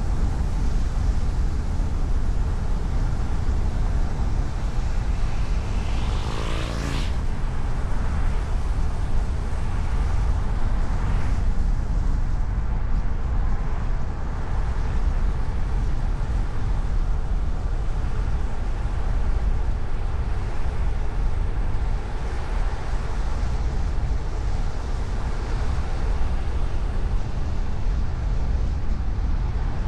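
Steady road and engine noise of a car driving, rumbling mostly at the low end. There is a brief louder whoosh about seven seconds in and a fainter one around eleven seconds.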